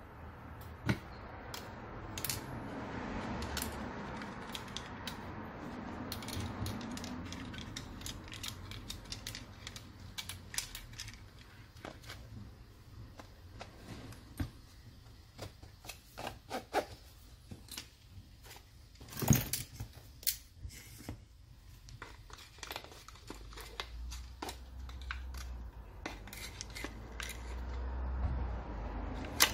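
Metal tools and grinder parts being handled on a workbench: irregular clinks, clicks and light knocks over soft rustling, with one louder clack about two-thirds of the way through.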